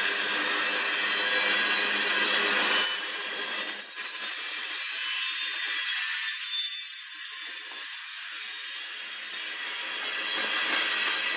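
Covered hopper cars of a freight train rolling past, their steel wheels on the rail making a steady grinding hiss with thin high screeching tones. It eases off somewhat past the middle and picks up again near the end.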